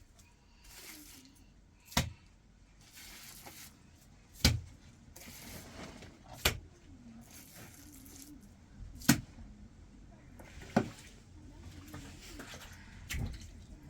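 Six sharp knocks, spaced about two seconds apart, from masonry work on a stone and brick fireplace.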